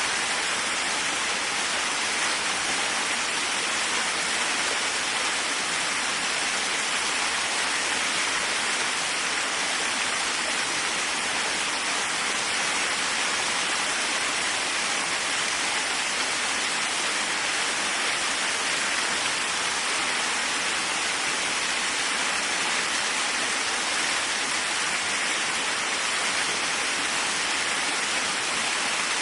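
Waterfall rushing steadily, a constant even roar of falling water with most of its weight in the middle and upper range and little deep rumble.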